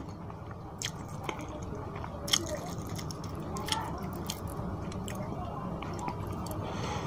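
Close-miked wet chewing of curry-soaked fish and rice, with scattered sharp, wet mouth clicks and smacks.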